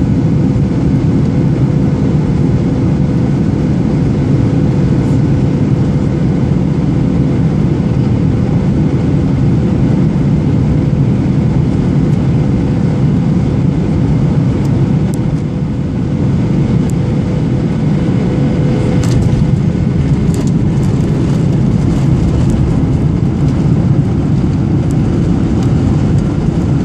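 Boeing 737-800 jet engines and airflow: a steady, unchanging low roar with a faint steady hum.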